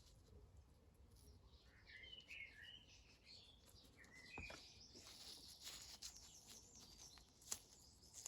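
Faint birdsong: small birds chirping and warbling over low background noise, with a few light clicks and one sharper click about seven and a half seconds in.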